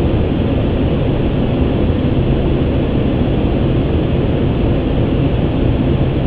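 Steady rushing cockpit noise of an Airbus A350 on final approach: airflow over the airframe and engine noise, heard on the flight deck.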